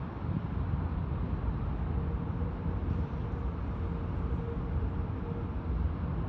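Jet airliner's GE9X turbofan engines giving a steady low rumble, with a faint steady whine joining about two seconds in.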